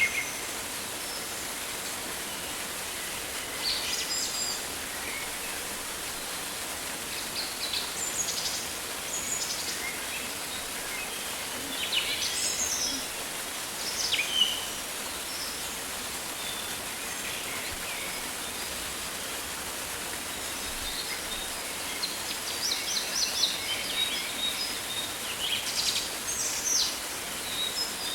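Rainforest ambience: a steady hiss of rain, with birds calling in short chirps and trills every few seconds and more often near the end.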